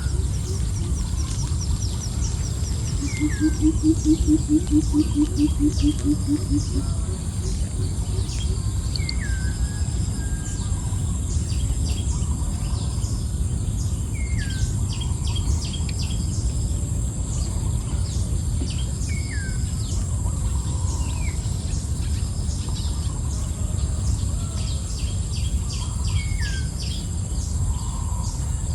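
Wild birds calling: a short downward-sliding whistle repeats about every three seconds among many quick high chirps. A low, rapidly pulsing call runs for a few seconds near the start, over a steady high insect whine and a steady low rumble.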